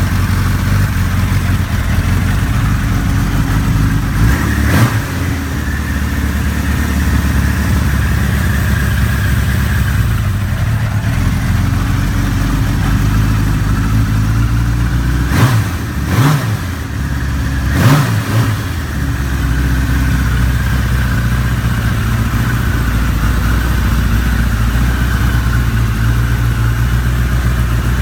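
Suzuki Katana motorcycle engine idling on the choke after a cold start, warming up. It is blipped once briefly about a sixth of the way through and three times in quick succession around the middle, each rev rising and dropping back to idle.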